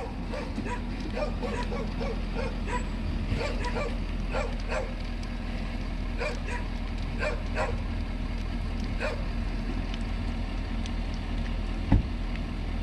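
A dog barking repeatedly in short barks that stop after about nine seconds, over a steady low rumble, with one sharp knock near the end.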